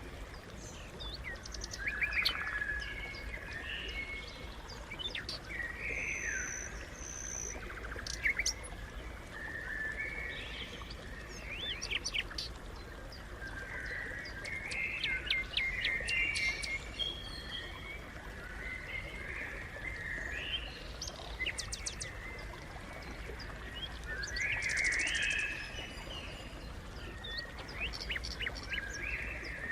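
Sparrows chirping continuously, several birds calling over one another in quick, repeated chirps.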